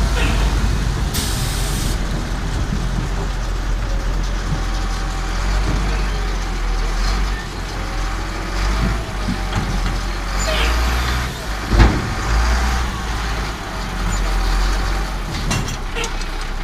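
A heavy engine running steadily, a low rumble with a noisy hiss over it. A sharp knock comes about twelve seconds in.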